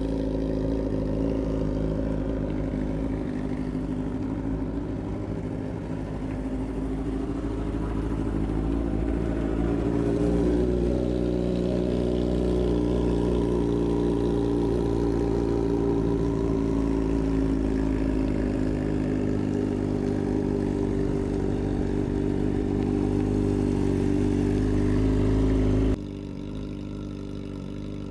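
2008 Yamaha YZF-R6's inline-four engine running steadily, growing a little louder about ten seconds in. Near the end the sound drops abruptly to a lower level.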